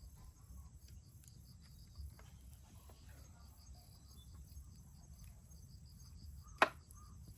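Crickets chirping faintly in a fast, even pulsing trill over a low rumble, with one sharp click about six and a half seconds in.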